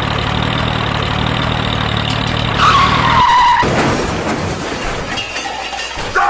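A vehicle-like engine sound with a steady low hum, then a falling squeal about three seconds in, followed by a rough, noisy rush.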